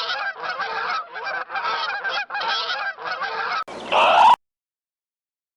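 Geese honking in a rapid, continuous run of repeated calls, followed about four seconds in by a brief louder call with a rising pitch that cuts off abruptly into silence.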